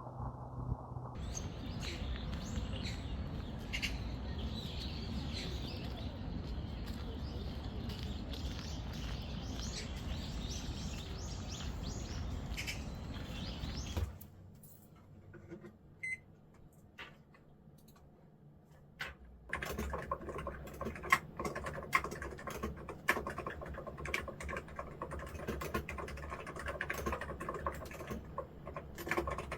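A dense, even noisy background for the first half, then a few seconds of near quiet. About two-thirds of the way in, computer-keyboard typing begins: a fast, uneven run of key clicks.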